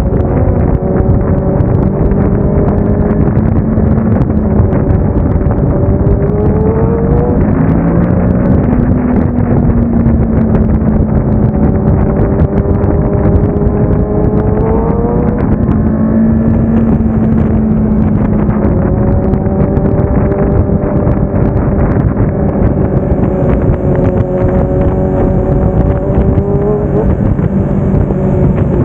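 Kawasaki Ninja 650's parallel-twin engine running under way, with heavy wind rushing over the microphone. The engine's pitch climbs and falls back several times: about seven seconds in, again about fifteen seconds in, and near the end.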